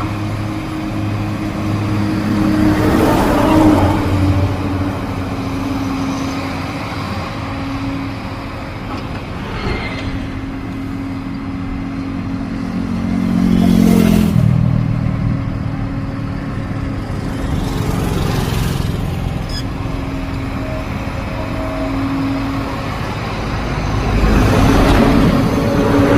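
Heavy earthmoving machine's diesel engine running under load, surging louder a few times, with a sudden drop in engine pitch about halfway through.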